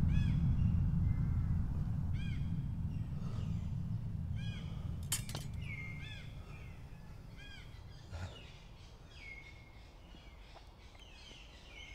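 Wild birds singing in woodland: short arched chirps repeating every couple of seconds, with a few longer calls, over a deep low rumble that fades away over the first half. A single sharp click about five seconds in.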